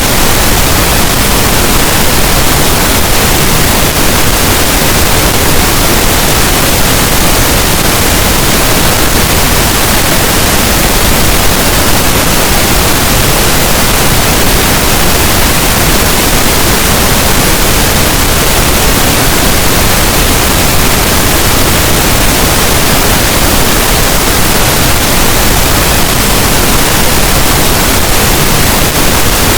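Pink noise: a steady, even hiss spread evenly across the whole range from low to high, unchanging throughout, like a loud rush of static or a waterfall.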